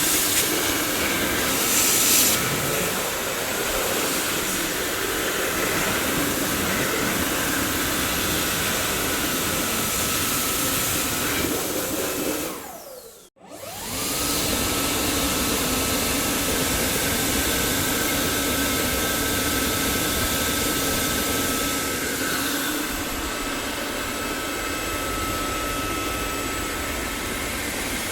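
Dyson vacuum cleaner running with a steady rushing hiss and a high motor whine. About thirteen seconds in, the whine falls away and cuts out for a moment, then comes straight back up and settles at a steady pitch.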